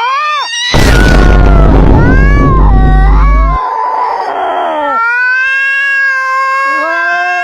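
A cat yowling in long, wavering calls, broken for about three seconds near the start by a loud, harsh, noisy stretch. A second, lower call joins near the end.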